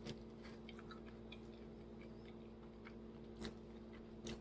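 Faint chewing of chicken, with a few soft mouth clicks, over a steady low hum.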